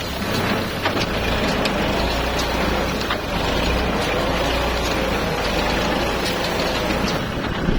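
Kubota tractor engine running steadily, its pitch wavering slightly, with sharp clicks and knocks now and then.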